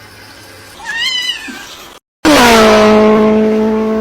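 A cat meows once, about a second in. After a brief cut to silence, a loud, long call holds one steady low pitch for about two seconds.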